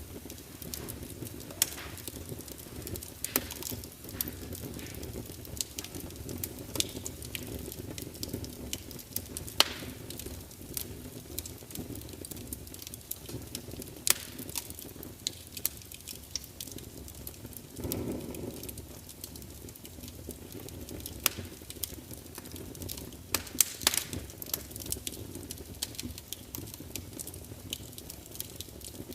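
Wood fire burning in a large fireplace: a steady low rumble of flames with irregular sharp crackles and pops from the logs, and a brief swell of flame noise about two-thirds of the way through.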